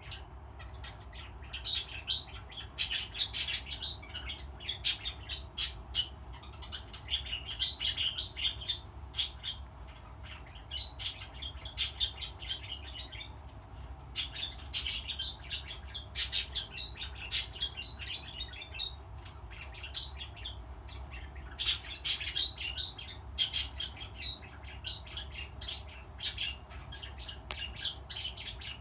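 Pet budgerigars chirping and chattering in bursts of quick, sharp chirps with short pauses between them, over a low steady hum.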